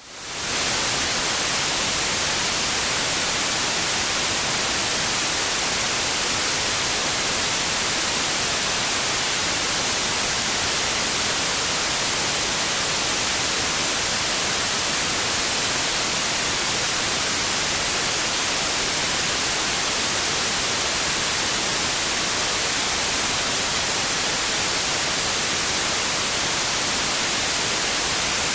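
Steady white noise: an even, featureless hiss strongest in the high end, rising in over the first half second and then constant.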